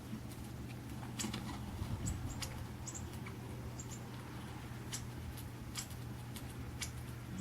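Small birds from a bird video for cats: scattered short high chirps and light pecking clicks, over a steady low hum.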